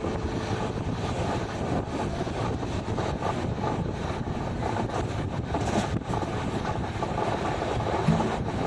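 Passenger train running: a steady rumble and rattle of the coach moving along the rails.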